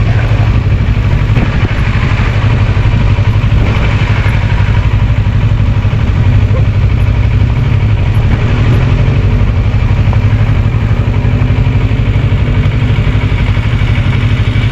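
Kawasaki Versys 650 parallel-twin engine running steadily under way, mixed with a steady rush of riding wind on the microphone.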